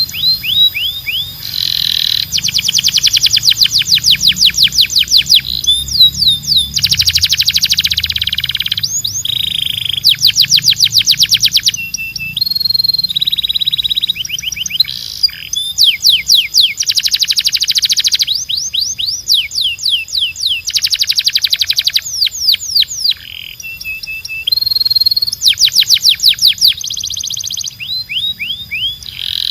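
Canary singing: a continuous string of rapid trills, each a fast run of repeated downward-sweeping notes lasting a second or two, switching from one trill type to the next, with a few short held whistles between.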